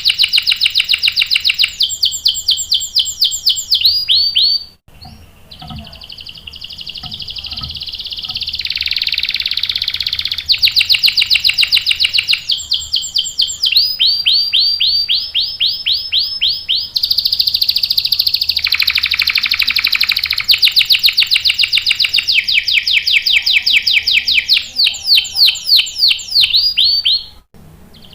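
Domestic canary singing long rolling trills: fast runs of repeated notes that shift in speed and pitch every few seconds. The song breaks off briefly about five seconds in and again near the end.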